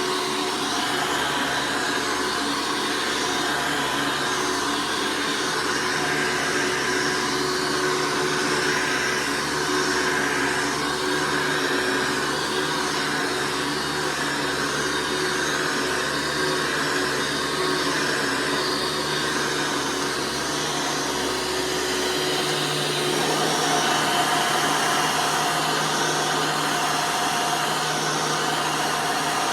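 Hoover Elite vacuum cleaner running steadily with a continuous motor hum. About two-thirds of the way through its note changes and then holds steady again.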